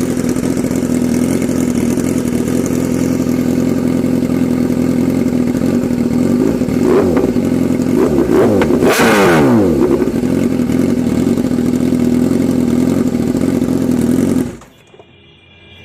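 Motorcycle engine running at a steady speed, with other vehicles passing about seven and nine seconds in, their pitch falling as they go by. The sound cuts off suddenly near the end.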